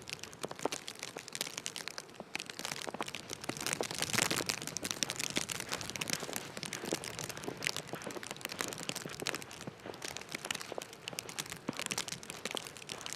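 Footsteps crunching through snow: a dense, irregular crackle of small crunches.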